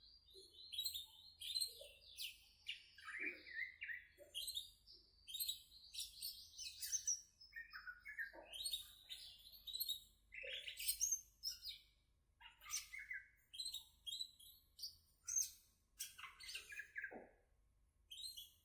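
Green leafbird (cucak ijo) singing in full voice: a fast, unbroken run of varied chirps, whistles and sweeping notes, many short and sharp.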